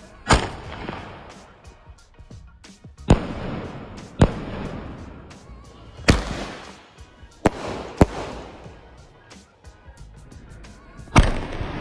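Fireworks going off: about seven sharp bangs spread through, some only a second apart, each trailing off into a fading hiss, with smaller pops between them. Among them are 1-inch skyshot shells launching and bursting.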